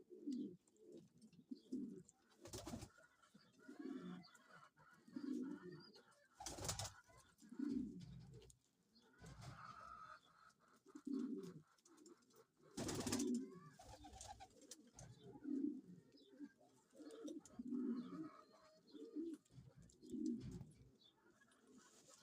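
Domestic pigeons cooing over and over in low, throaty phrases about a second apart, broken three times by a brief noisy burst.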